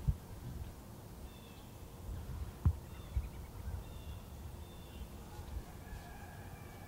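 Faint, short high bird chirps a few times over a low, uneven rumble of wind or handling noise, with one sharp click about two and a half seconds in.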